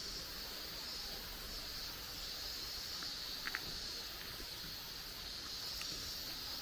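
Forest trail ambience: a steady high hiss that swells and fades slowly, with two faint ticks about halfway through.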